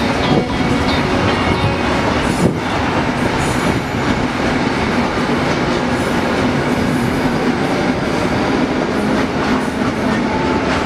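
Series 412 electric multiple unit rolling past along the platform: a steady rumble of wheels on rail with a low hum underneath and a few sharp clacks in the first four seconds.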